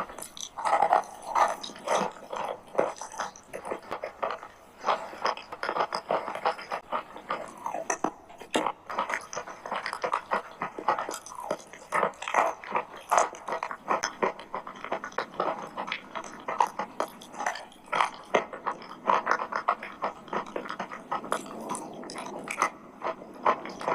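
Mouth chewing edible chalk mixed with clay paste, with dense, irregular crunching and crackling throughout.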